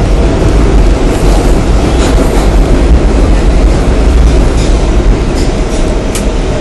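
Passenger train running, heard from inside the carriage: a loud steady rumble of wheels on the rails, with a few faint clicks.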